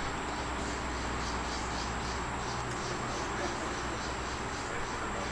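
Insects, likely crickets, chirping in an even rhythm of about three chirps a second, over a steady low hum.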